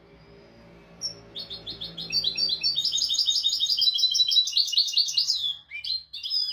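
European goldfinch singing: a fast run of high, trilled and twittering notes that starts about a second in and stops abruptly near the end.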